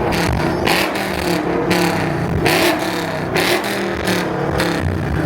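A car engine revving repeatedly in short bursts.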